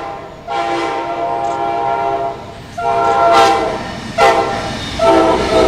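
CSX freight locomotive's multi-chime air horn sounding a series of loud blasts: two long, a short, then a long one held, the pattern of a grade-crossing warning.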